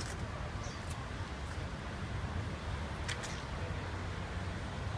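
Steady low outdoor rumble with a few brief, faint high chirps or clicks, the loudest pair about three seconds in.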